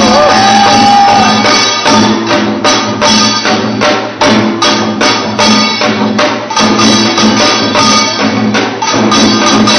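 Korean pungmul buk barrel drums played in ensemble, a fast, dense run of loud strokes with ringing tones beneath.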